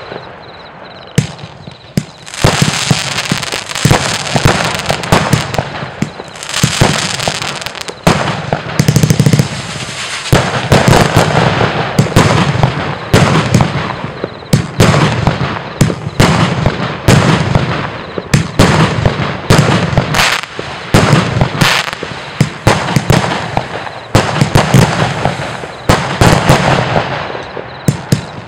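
Geisha 'Devils Dynamite' 259-shot firework compound cake firing: loud volleys of bangs and crackling. After a short lull at the start, the shots come in quick succession, many per second, through most of the stretch.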